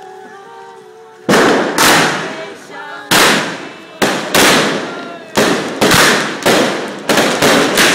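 Aerial fireworks going off: after a brief pause, a rapid series of sharp bangs, each with a short crackling tail. The bangs start about a second in and come faster toward the end.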